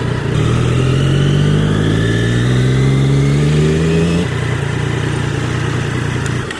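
Triumph motorcycle on Cobra aftermarket pipes accelerating, its engine note rising steadily for about four seconds. The rising note then breaks off and the engine runs on at a steady, lower level.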